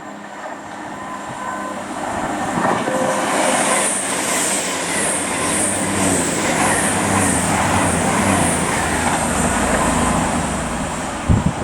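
Train passing through the station: the rumble and rail noise build over a few seconds, hold loud with a high hiss that pulses about twice a second, then fade as it goes by.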